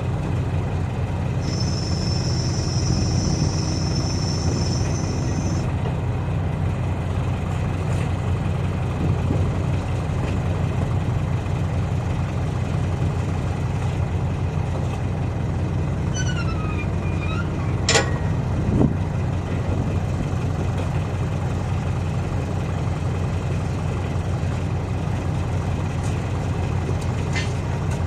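Heavy diesel engine running steadily. A high-pitched hiss lasts about four seconds near the start, and a single sharp knock comes about two-thirds of the way through.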